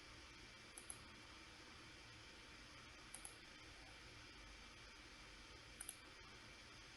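Computer mouse double-clicking three times, each a pair of faint sharp clicks, over a low steady hiss.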